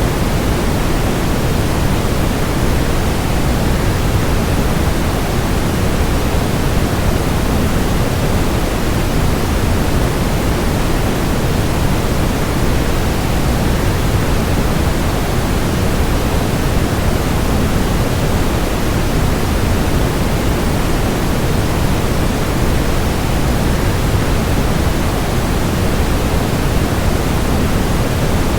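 Steady rushing of a waterfall blended with white noise: an even, unbroken hiss, heaviest in the low end.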